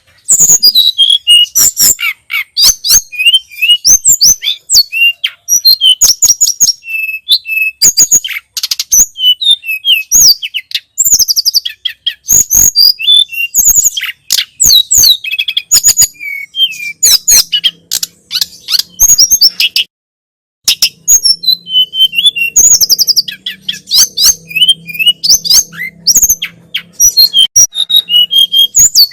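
Tledekan gunung (sulingan gunung) songbird singing continuously in rapid runs of high chirps and whistled notes, with a brief pause about two-thirds of the way through.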